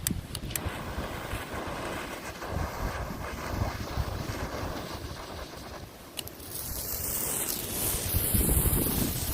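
Wind buffeting the microphone, with a few sharp clicks; about six and a half seconds in, a firework catches and starts spraying with a loud, high hiss.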